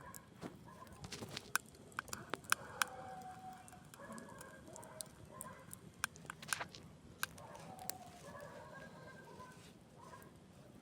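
Campfire crackling, with sharp irregular pops bunched about a second and a half to three seconds in and again around six to eight seconds in. Birds call in short repeated notes in the background.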